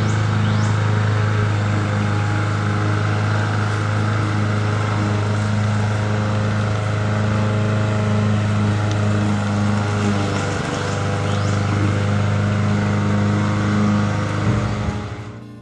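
A motor running steadily with a low, even hum, fading out near the end.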